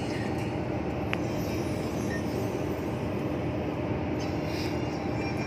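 A truck driving along a highway: steady engine and road noise, with a constant low hum running through it.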